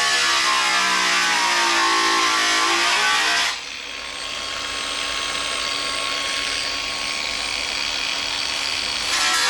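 Battery-powered cutting tool running through sheet steel, its pitch wavering as it works. It stops abruptly about a third of the way in, leaving a quieter steady hum, and starts again near the end.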